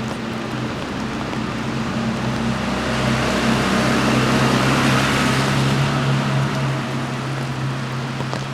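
A vehicle passing on a wet street: tyre hiss swells to a peak about halfway through, then fades, over a steady low engine hum.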